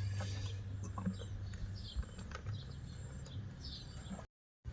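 Small birds chirping, a string of short falling chirps every half second or so, over a low steady hum and a few faint handling clicks. The sound cuts out completely for a moment near the end.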